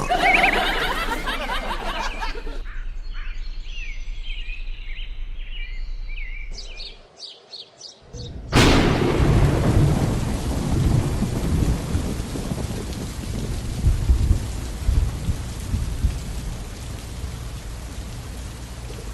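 Sweeping, warbling tones in the first half. About halfway through, a sudden loud rush of noise sets in and carries on as a steady rain-like hiss with low rumbles.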